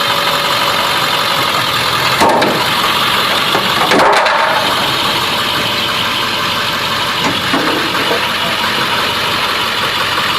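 UPS delivery truck's engine running steadily, with two short louder knocks about two and four seconds in.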